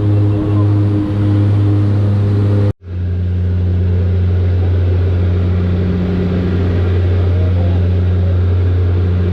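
Aircraft engine droning at a steady pitch. The sound cuts out for an instant about three seconds in, then comes back with a slightly changed pitch.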